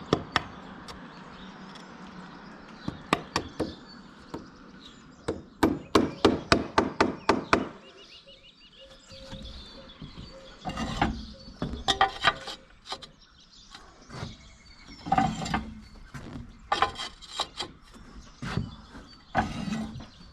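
Knocks and taps of roof-tiling work: sharp single knocks, a quick even run of about eight strikes around six to eight seconds in, then scattered clusters of knocks and clatter.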